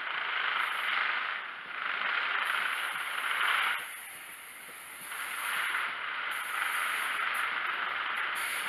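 Mark 3 coaches of a GWR HST rolling slowly past, a rushing hiss of steel wheels on the rails that swells and eases several times as the coaches go by.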